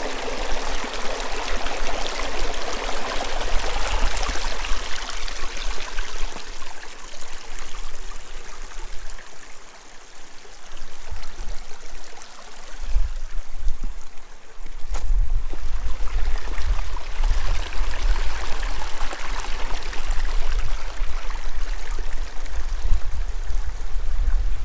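Creek water rushing and trickling over rocks, steady and strongest in the first half. From about halfway through, a heavy low rumble is laid over it, with one sharp click.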